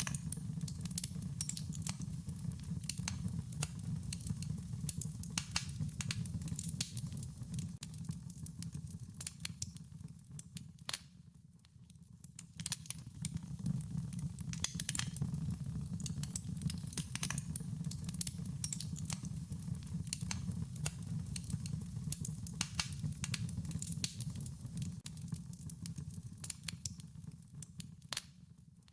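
Wood fire crackling: irregular sharp pops and snaps over a steady low rumble of burning flames, easing off briefly about eleven seconds in and again near the end.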